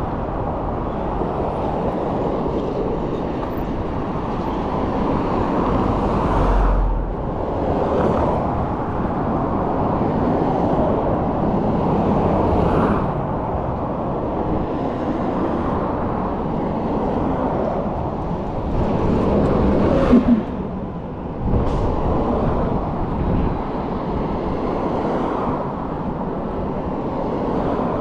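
City street traffic noise: cars passing by, heard from a moving e-bike, with a steady rush and several vehicles swelling past, the loudest about twenty seconds in.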